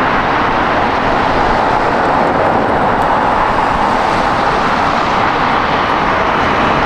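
Jet airliner engines heard at close range: a loud, steady roar.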